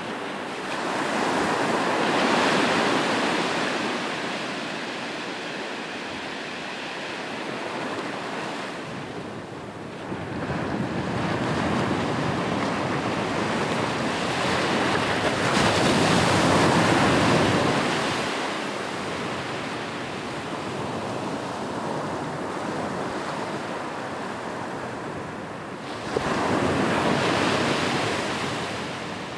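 Ocean waves breaking and washing on the shore, the surf swelling in three broad surges about every ten seconds, with a steady rush between them.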